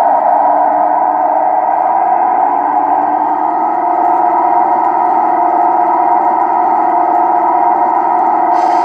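Sound-decoder recording of the DP1 Deltic's Napier Deltic engines, played loud through a model locomotive's onboard speakers as it runs after setting off; a steady electronic-sounding drone. A short hiss near the end.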